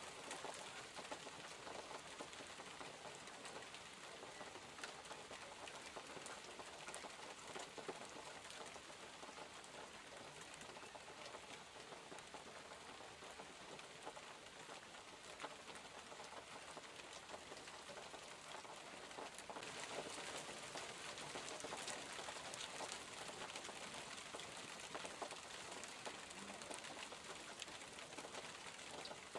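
Steady rainfall: an even hiss of rain with many small drop ticks. It grows a little louder about two-thirds of the way through.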